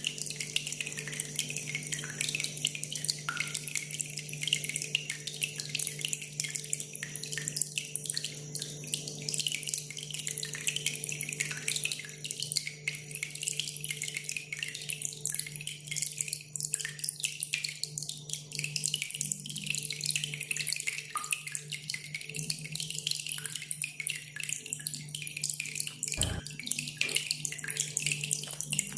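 Water trickling and dripping steadily over a constant low hum, with one short low knock near the end.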